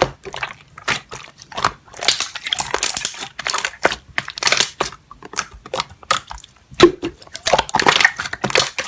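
Slime being squeezed and poked by hand, giving an irregular run of crackly clicks and crunchy pops.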